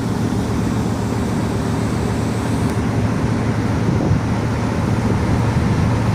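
Ship's engine running steadily with a low, even hum during a sea trial after dry-docking.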